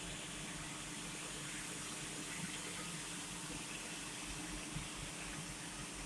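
TIG welding arc on 304 stainless steel pipe, a steady, even hiss.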